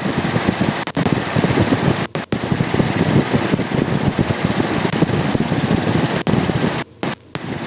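Loud, rumbling helicopter cockpit noise, rotor and wind, picked up by an open microphone. It drops out briefly about two seconds in and cuts off near the end.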